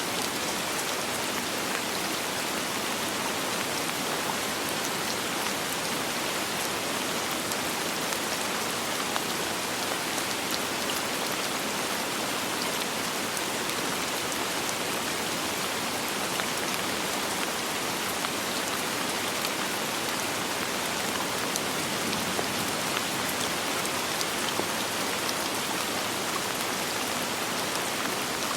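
Steady rain falling on a surface, an even hiss with scattered individual drop ticks and no thunder.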